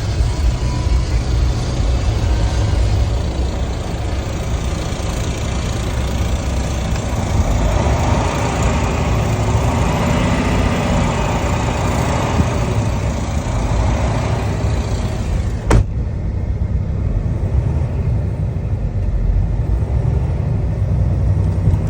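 Diesel engine of a 2022 Kenworth T680 semi-truck tractor running steadily, its sound fuller for a few seconds in the middle. A single sharp click comes about 16 seconds in.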